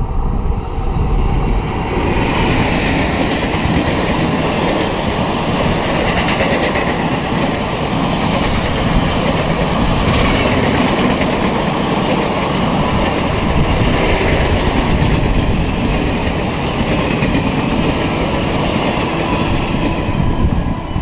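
Express train running through at speed behind an electric locomotive: the sound swells as the locomotive reaches the microphone about two seconds in. A long rake of passenger coaches then goes by with steady wheel clatter on the rails.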